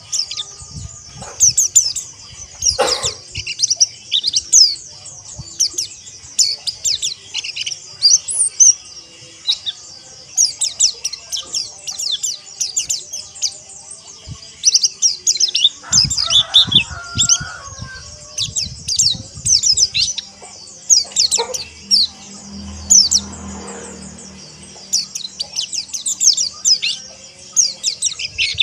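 Many white-eyes (pleci) calling together: dense, rapid, overlapping high chirps and twittering trills with no break. A few low knocks come a little past halfway.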